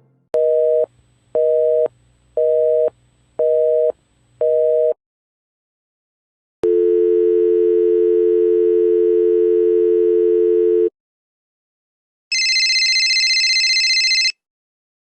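Telephone line tones: a busy signal beeping five times, each about half a second with half-second gaps, then a steady dial tone held for about four seconds. Near the end comes a separate, higher electronic tone lasting about two seconds.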